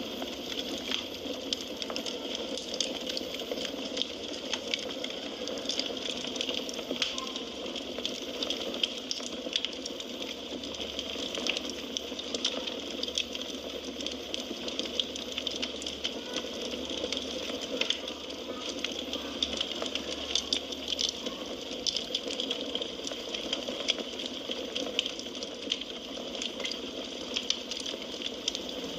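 Firewood burning in a fireplace: a steady hiss with many small, sharp crackles and pops.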